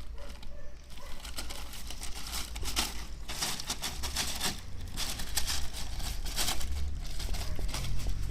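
A puppy at play: a run of short crinkling, scratching noises that gets busier from about three seconds in, over a steady low rumble.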